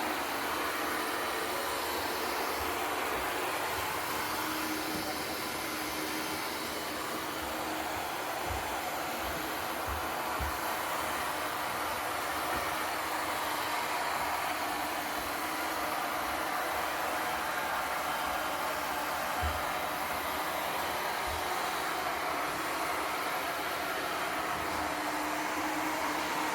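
360 C50 robot vacuum cleaner running with a steady whirring hum, with a few soft low knocks along the way.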